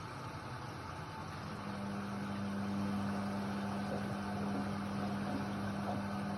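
Indesit WIDL 106 washer-dryer running mid-cycle: a steady machine noise, joined about one and a half seconds in by a steady low hum.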